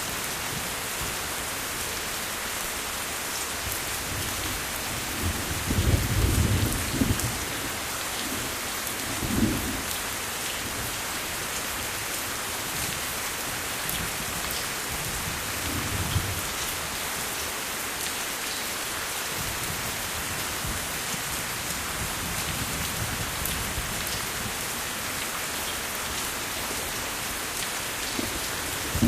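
Steady rain hissing without a break, with low rolls of thunder. The longest and loudest rumble comes about six seconds in, shorter ones follow a few seconds later and again midway, and another roll starts at the very end.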